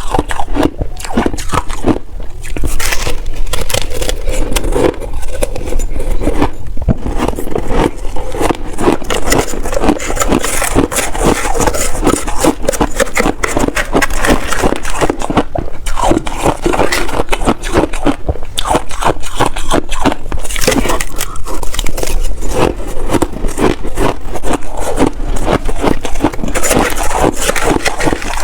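Close-miked crunching and chewing of mouthfuls of shaved ice: a continuous, dense run of loud, irregular crunches.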